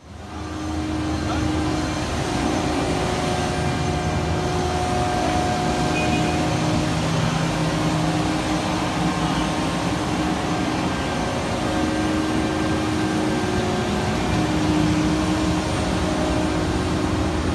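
Engines of heavy asphalt-paving machinery running steadily: a constant low drone with a few held tones that fade in and out.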